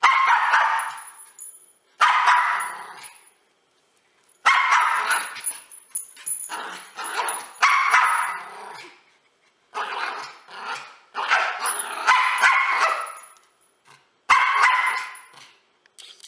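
A dog barking in a string of loud bursts, each a second or so long and fading out, with short pauses between.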